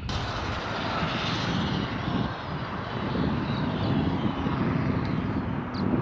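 ARRMA Infraction RC speed truck on a high-speed run: a whine from its brushless motor and drivetrain, gliding in pitch, over a steady rush of tyre and wind noise. The sound cuts in abruptly at the start.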